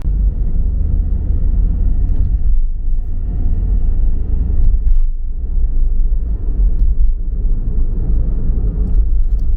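Car driving, with a loud, low, steady road and engine rumble.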